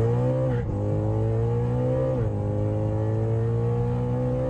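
BMW E92 M3's V8 engine accelerating, heard from inside the cabin. Its pitch climbs steadily and falls back with an upshift about half a second in, and again about two seconds in.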